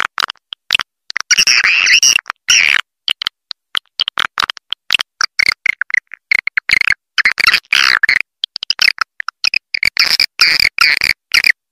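Swiftlet lure call: edible-nest swiftlets twittering and chirping in rapid chattering bursts, broken by short silent gaps. It is a roosting call, played to draw swiftlets in to roost in a swiftlet house.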